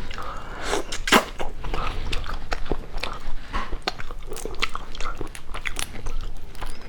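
Close-up eating sounds: a person biting and chewing food, with irregular crisp crunches and wet mouth clicks, the sharpest about a second in.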